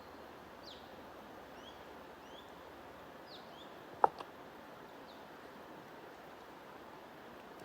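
Small birds chirping in short, quick calls over a steady rush of flowing water, with one sharp click about four seconds in.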